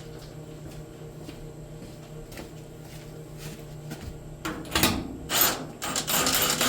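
Steady low hum, then about two-thirds of the way through, a few short loud bursts of a power drill-driver working screws on the boiler's casing.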